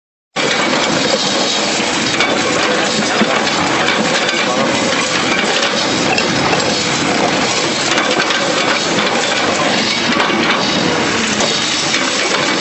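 Concrete crunching and crackling as an excavator pulverizer crushes it, starting suddenly about half a second in and then going on as a dense, steady stream of fine cracks and clinks.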